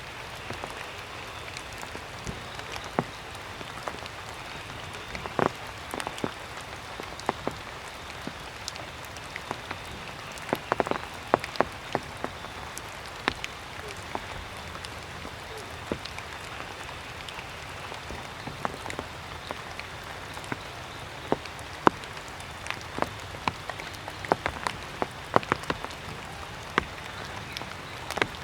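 Water dripping from wet foliage just after rain has stopped: irregular sharp taps of falling drops, in small clusters, over a steady background hiss.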